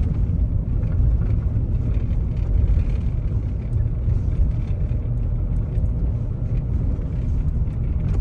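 Jeep Wrangler being driven along a road, a steady low rumble of engine and tyres.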